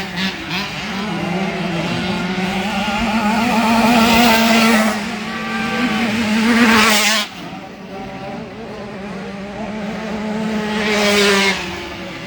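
Two-stroke 65cc youth motocross bikes revving hard as they pass, the engine note rising and swelling with each pass. The loudest pass, about seven seconds in, drops away sharply.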